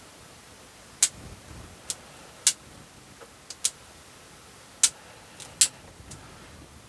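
Bonsai pruning scissors snipping conifer shoots and twigs: about seven sharp clicks at irregular intervals.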